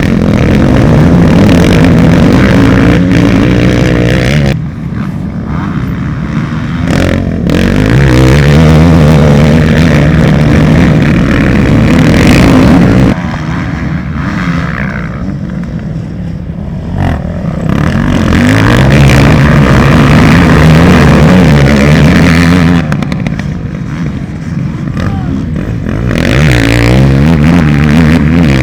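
Motocross bikes' engines revving hard, the pitch climbing and dropping again and again as the riders accelerate and shift. It comes in loud waves of several seconds as bikes pass close, easing off in between.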